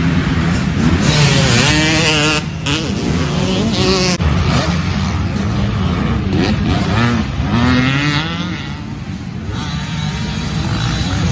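Several motocross bikes revving hard as they race past, their engine pitch rising and falling with each throttle change and overlapping one another.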